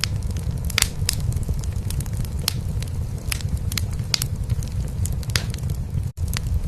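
Wood fire crackling in a fireplace, with irregular sharp pops, over a steady low rumbling purr from a cat. The sound cuts out for an instant about six seconds in.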